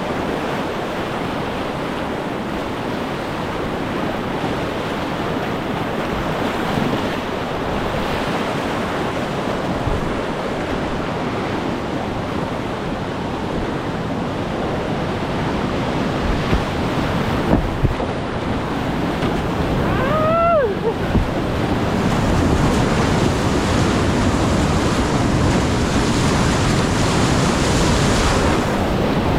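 Whitewater river rushing steadily, with wind buffeting the microphone; it gets a little louder in the last third. About two-thirds of the way in a brief tone slides down in pitch.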